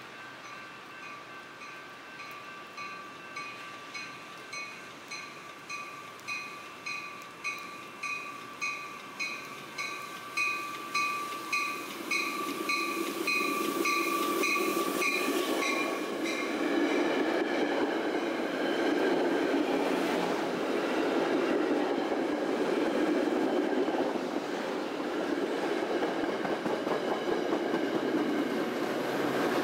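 A railroad warning bell rings steadily, about twice a second, growing louder, then stops about 16 seconds in. A Metra commuter train then rumbles through the station on the BNSF main line, wheels clicking over the rail joints.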